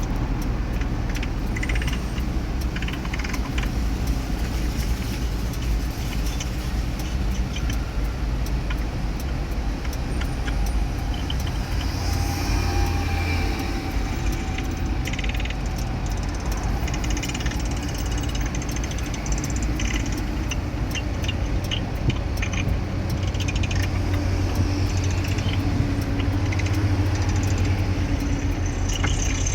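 A car driving on a toll road: a steady low rumble of engine and tyres, with light rattling and clicking throughout.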